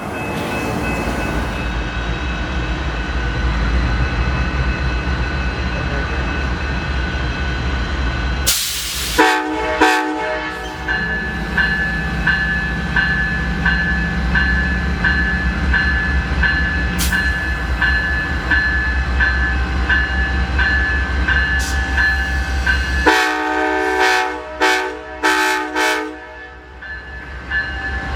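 Diesel passenger train at a station: the locomotive engine rumbling steadily, a short loud hiss about nine seconds in, then the horn sounding and a bell ringing in a steady rhythm. The engine rumble drops away about five seconds before the end while the bell keeps ringing.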